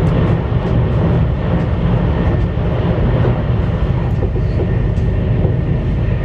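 CRH1A-A high-speed electric multiple unit running, heard from inside the carriage: a steady deep rumble with an even rushing noise, a faint high whine and a few light ticks.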